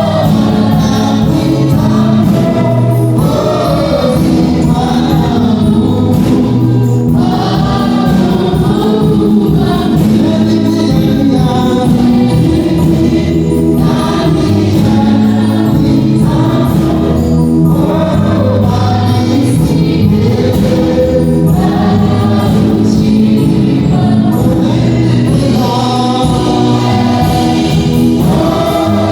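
A choir singing a gospel song over steady musical accompaniment, loud and without pause.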